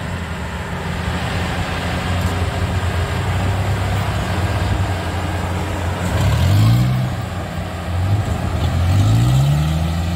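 Yanmar combine harvester's diesel engine running steadily, its pitch rising twice as it revs up, about six and nine seconds in.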